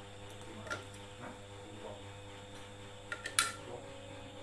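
Steady electrical hum with a few light clicks, and one sharp click about three and a half seconds in.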